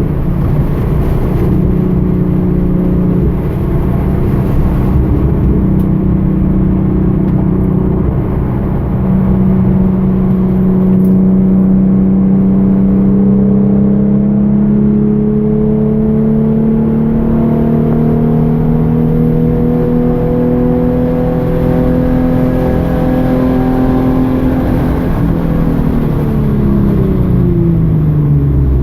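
Hyundai Genesis Coupe 3.8-litre V6 engine under load on a wet track lap. Its pitch climbs slowly and steadily through a long pull from about a third of the way in, then drops quickly near the end as the revs come down.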